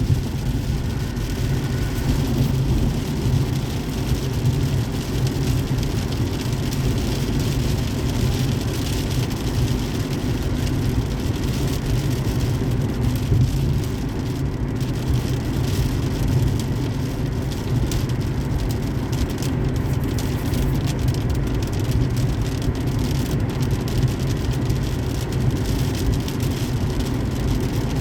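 Car driving on a highway in the rain: steady road and tyre noise with a low rumble, mixed with rain.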